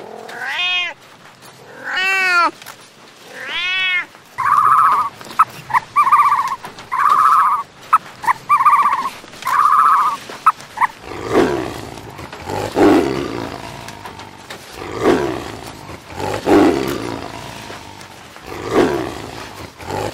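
A domestic cat meows three times. Then comes a run of about half a dozen short, evenly spaced calls. After that a tiger gives rough, low calls about every two seconds.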